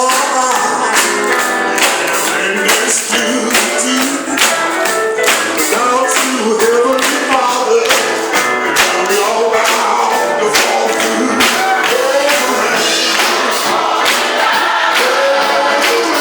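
Gospel song: singers with a choir over band accompaniment with a steady beat.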